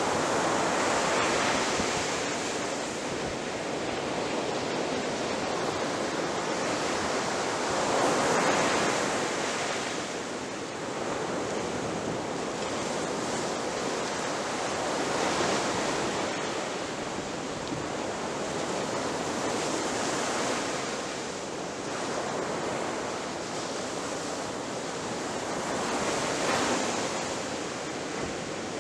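Ocean waves breaking on a beach: a continuous wash of surf that swells with each breaker about every six to seven seconds, then eases back.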